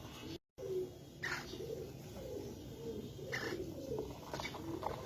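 Pigeons cooing in low, wavering tones, with a few short, high chirps over them. The sound drops out completely for a moment about half a second in.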